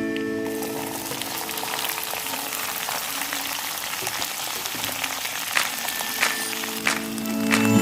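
Food sizzling and crackling as it fries in hot oil. Background music fades out about a second in and comes back near the end.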